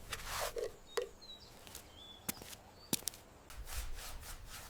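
Repeated rubbing strokes on wood, with a few sharp knocks.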